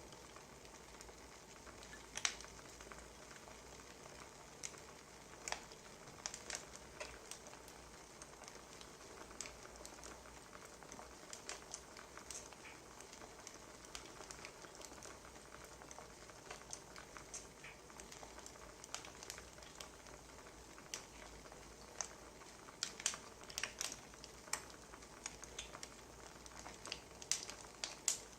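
Wood fire crackling: irregular sharp pops and snaps over a faint steady hiss, coming more thickly near the end.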